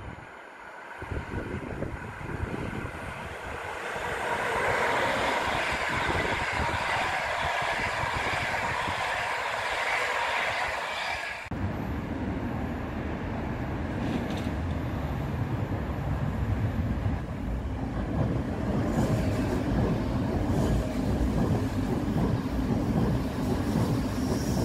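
Electric passenger trains passing on an electrified line: a locomotive-hauled train approaches and grows louder for about ten seconds, then after a sudden cut an electric multiple unit rolls past with a steady heavy low rumble.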